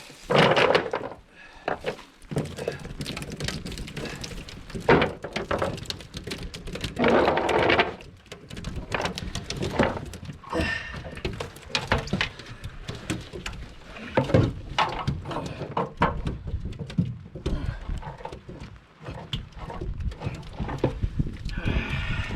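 Irregular thumps, knocks and clatter with a few short splashes: a cast net and freshly netted bait fish being handled and emptied on a boat deck.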